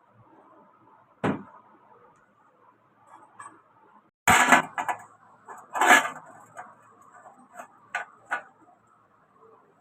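Scattered knocks and clatters, like tools or parts being handled: one sharp knock about a second in, a louder cluster around four to five seconds, another near six seconds, and two short clicks near eight seconds.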